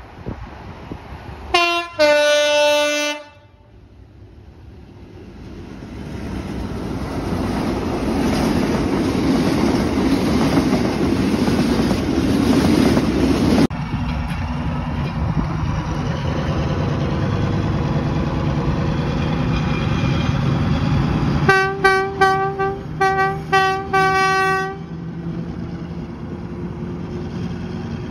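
A train horn gives two blasts, then a passing train's rumble builds up steadily. After a sudden change, another train runs with a steady rumble and its horn sounds a quick series of about eight short toots.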